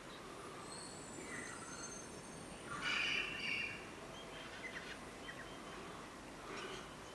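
Wild birds calling: thin high whistles at first, then a louder burst of chirps about three seconds in, with a few short chirps later, over a faint background hiss.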